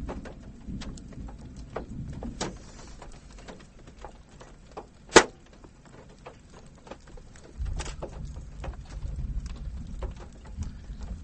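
Scattered raindrops ticking and tapping on a car body and windshield, with one sharp, louder click about five seconds in and a low rumble during the second half.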